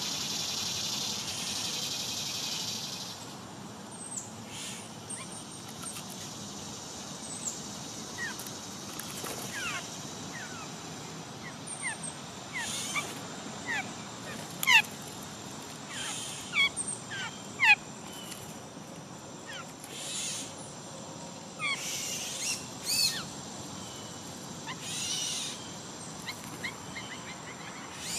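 Small songbirds chirping and calling, with many short, sharp downward-sweeping chirps and a few brief harsher, raspy calls scattered throughout. A steady high hiss runs for the first few seconds.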